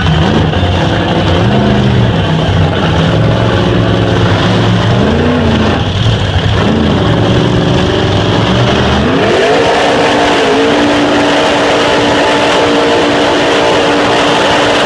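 A pulling truck's engine revving up and down several times, then climbing about nine seconds in to a steady high rev held to the end, as at full throttle under load.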